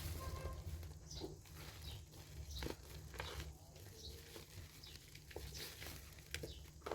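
Soaked bar soap being worked by hand: faint, irregular wet clicks and crackles over a steady low hum.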